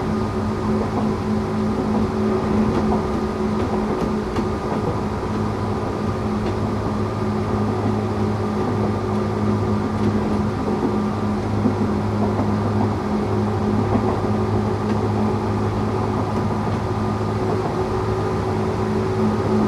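Tokyu 8500-series electric train heard from inside the car: a steady hum of several constant tones over a rumbling running noise, holding the same pitch throughout.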